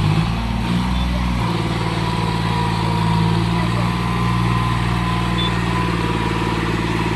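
Heavy diesel engine running loud and close: it picks up in the first second or so, then holds a steady working speed, with a thin high whine above it.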